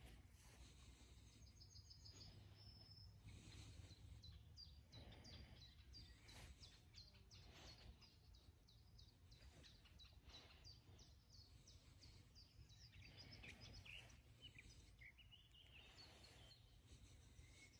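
Faint birdsong: a long run of short, high chirping notes, with some lower, sliding notes near the end, over a low steady rumble.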